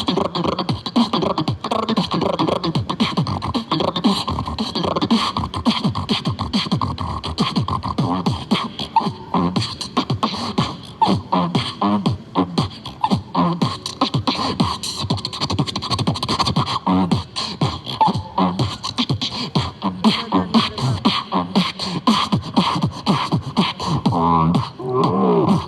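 Human beatboxing: a continuous fast stream of mouth-made drum hits, with pitched vocal hums and bass lines woven in, the pitched parts strongest near the end.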